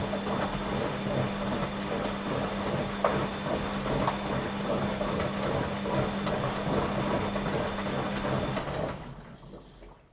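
Washing machine running with a steady hum and whir, which winds down and stops about nine seconds in.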